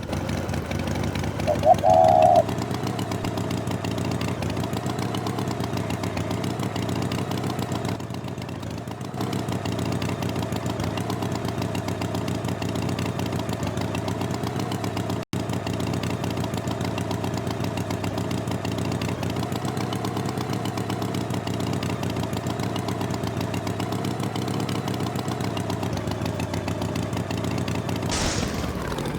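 An engine running steadily with an even, rapid rhythm, with a short higher tone about two seconds in.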